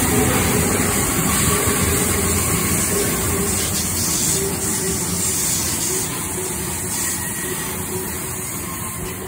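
Double-deck electric passenger train passing close by, a steady rush and rumble of wheels and running gear that slowly fades in the second half.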